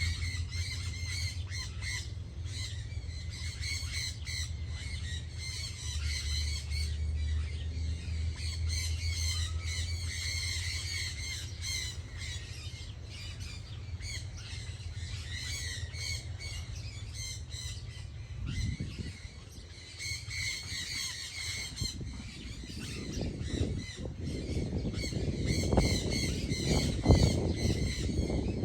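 Many birds calling at once, a dense chorus of short repeated calls over a steady low hum. In the last several seconds a louder low rumbling noise rises under the calls.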